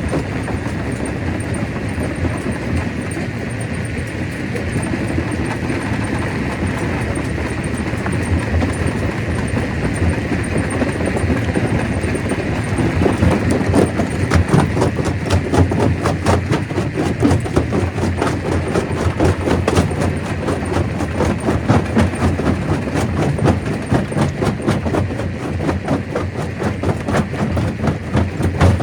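Stone crusher running under load, with a dense, continuous clatter of rock knocking and rattling through the machine over a steady mechanical din; the knocking gets busier about halfway through.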